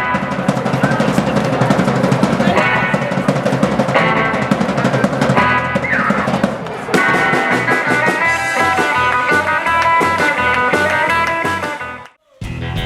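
Live rockabilly band playing, with drums and electric guitar. It cuts out suddenly for a moment near the end, then music comes back in.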